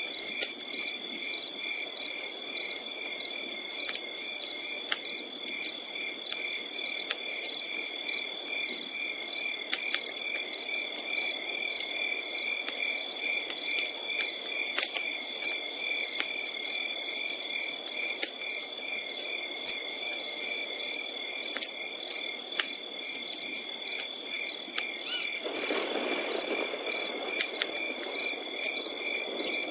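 Crickets singing: a steady high trill with evenly repeated chirps at about two a second. Over it a campfire crackles with scattered sharp pops and a low hiss, which swells into a louder rush for a second or so near the end.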